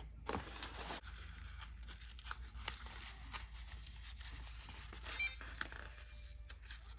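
Faint, irregular rustling and crinkling of sticker decals being peeled from their backing sheet and handled, with scattered small ticks.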